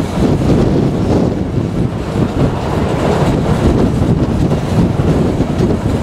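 Narrow-gauge steam train running along the track, heard from an open carriage, with wind buffeting the microphone throughout.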